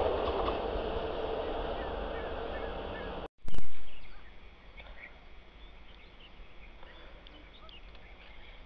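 A passing passenger train's rumble fading steadily as it moves away. About three seconds in it cuts off, there is a short, loud knock, and then quiet open-air background with birds chirping.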